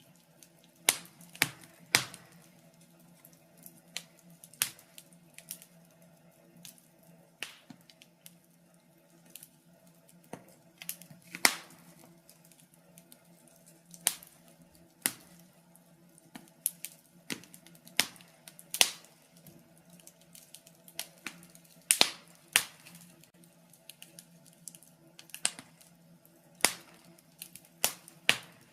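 Wood fire crackling: irregular sharp pops and snaps, a few loud ones every couple of seconds with many smaller ones between, over a faint steady low tone.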